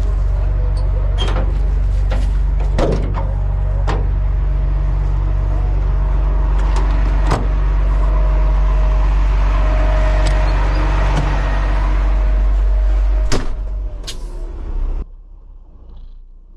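Heavy tow truck's diesel engine running with a steady low drone, a few sharp clicks and knocks over it. The engine sound stops about thirteen seconds in, and the rest drops away about two seconds later.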